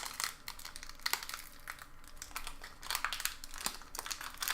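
Foil Pokémon booster pack wrapper crinkling and crackling in the hands as it is handled and opened, with a few sharp clicks of the plastic foil.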